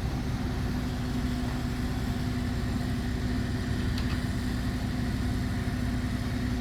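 Engine running steadily at idle, a constant low hum, with a light click about four seconds in.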